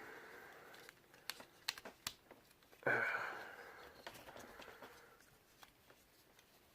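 Plastic parts of a Transformers action figure being handled during its transformation: a few sharp clicks, then a longer rustling, breathy sound about three seconds in that fades away.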